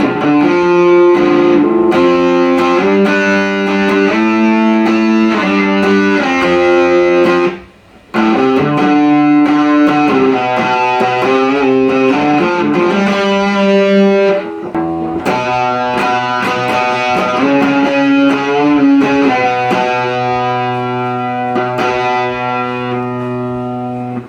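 Electric guitar played through a Marshall MG30DFX amplifier being tested after a repair: a run of picked notes and chords with a brief break about eight seconds in. It ends on a held chord that rings and then stops abruptly.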